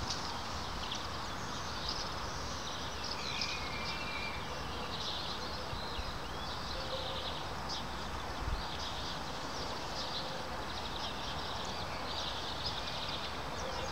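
Small birds chirping repeatedly in the background, many short high calls over a steady outdoor hiss, with one soft low bump partway through.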